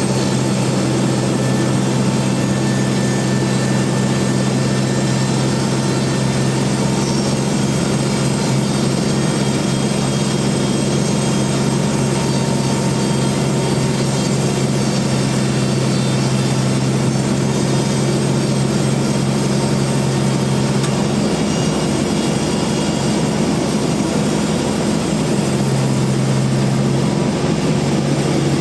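Band sawmill running steadily, a constant engine hum under the noise of the machine, with the hum briefly wavering about three quarters of the way through.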